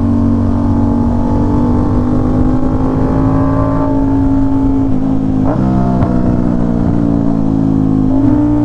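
Aprilia RS660's parallel-twin engine through an SC Project S1 full titanium exhaust, running under way at steady revs. The pitch sags slightly over the first few seconds, jumps briefly about five and a half seconds in, and steps up a little near the end.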